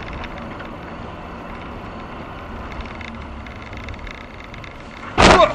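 Steady vehicle and road noise as heard by a dashcam while driving, broken about five seconds in by a short, very loud burst.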